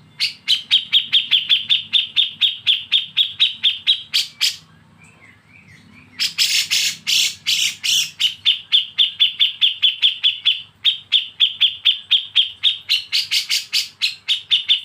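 Bulbul giving a rapid 'besetan' call: a fast, even train of sharp chirps, about six a second. It breaks off for a second or two about five seconds in, then starts again.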